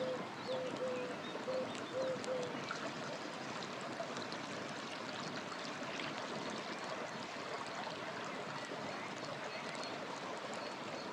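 River water flowing steadily, with scattered sharp crackles from a campfire. A low note repeats several times in the first couple of seconds, and a faint high bird note repeats near the end.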